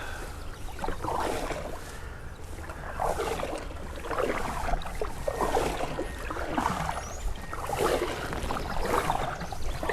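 Canoe paddle strokes swishing and dripping in the river water, one every second or so, over a steady low rumble of quarry machinery working in the distance.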